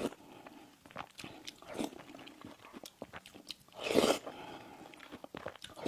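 Close-miked eating of sweet pastries and desserts: steady chewing with many small crackling clicks, and a louder bite just before four seconds in.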